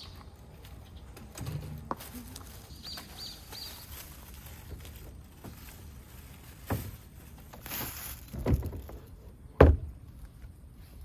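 A scatter of knocks and thuds, the sharpest about ten seconds in, with a short hiss just before it and three faint high chirps about three seconds in.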